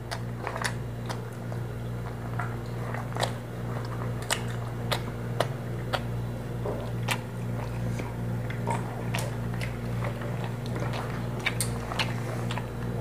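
A person chewing and biting food close to the microphone, with frequent irregular mouth clicks and smacks. A steady low hum runs underneath.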